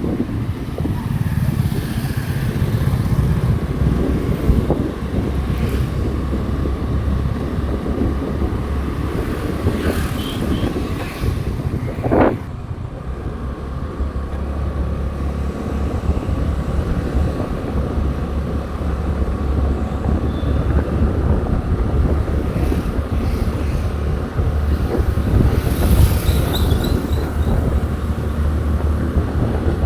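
Motorcycle riding along a road, its engine running steadily under wind rush on the microphone, with a short sharp sound about twelve seconds in.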